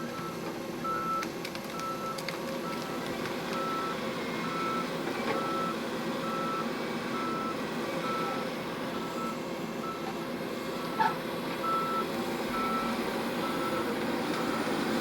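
Heavy logging machine's backup alarm beeping steadily, about two beeps a second, over its diesel engine running.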